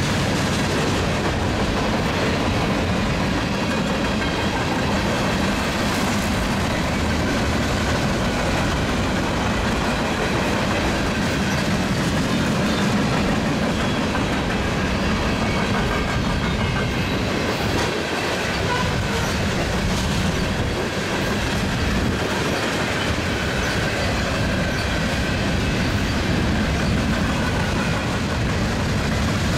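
Cars of a Union Pacific mixed freight train rolling steadily past, a continuous sound of steel wheels running on the rails.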